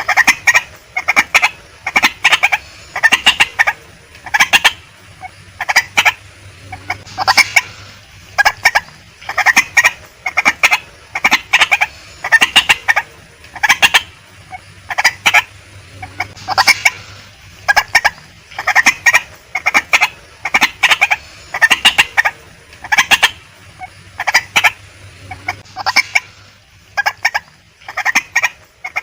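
Female white-breasted waterhen calling: short, sharp calls in quick clusters, repeated about every second.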